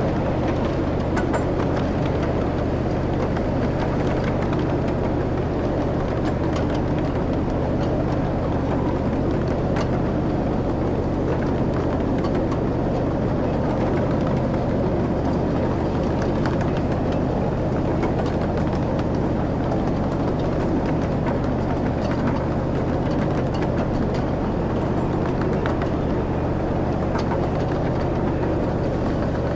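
A passenger train ride running steadily along its track: an even rumble with a low steady hum and faint scattered clicks.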